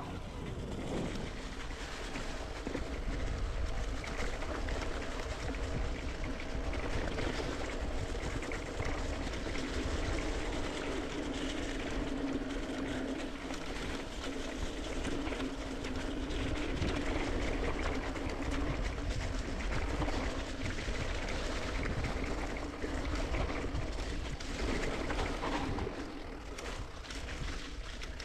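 Mountain bike riding a dirt singletrack: tyres rolling over dirt and stones with a steady rattle of small clicks, wind rushing over the microphone, and a steady hum underneath.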